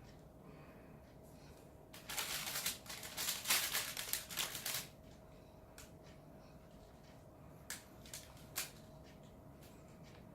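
Hands pressing plasticine onto a glass bottle: a few seconds of rustling and scraping handling noise, then a few light taps.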